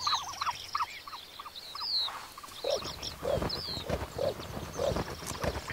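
Ostrich chicks calling: a run of short chirps a few times a second, high and quick for the first two seconds, then lower peeping calls from about halfway on.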